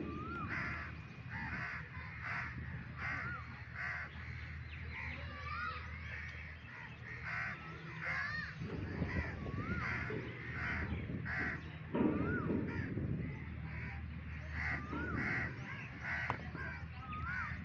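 Birds calling all through: a run of short calls, about one to two a second, with a whistled note that rises and falls, repeated every second or two, over a steady low hum.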